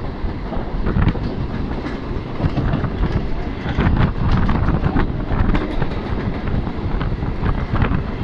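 EMU local train running at speed, heard from its open doorway: a loud rumble of steel wheels on rail with a run of irregular clacks as the wheels cross rail joints and points.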